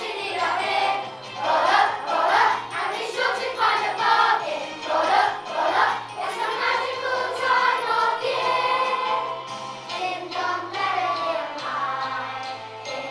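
A children's choir singing a song over an instrumental accompaniment with a stepping bass line.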